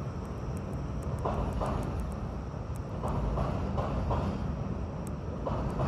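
A passing train rumbling, its wheels clacking over rail joints in a quick, uneven run that starts about a second in.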